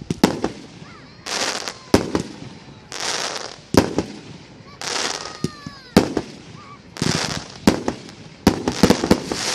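Aerial fireworks: sharp shell bursts about every two seconds, alternating with rushes of hissing crackle, and a quick cluster of bangs near the end.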